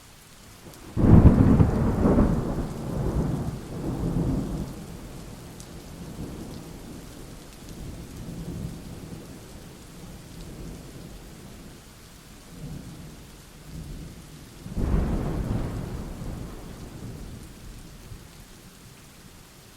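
Thunderstorm: rain falling steadily under two peals of thunder, the first breaking about a second in and rolling on in several waves, the second a loud clap well past the middle that rumbles away.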